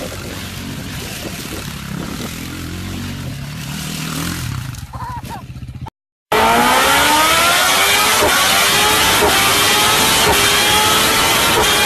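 Motorcycle engine accelerating hard at high revs, its pitch climbing and dropping back at each upshift, four shifts in quick succession. Before it, a quieter, lower engine rumble cuts off abruptly about halfway through.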